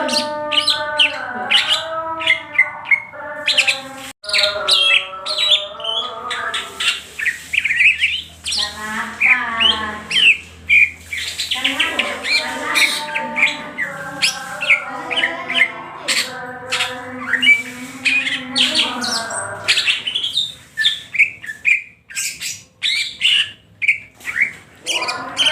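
Cucak hijau (green leafbird) singing in full voice: a fast, unbroken stream of chirps, trills and gliding whistles in the rapid, stuttering 'ngentrok' style.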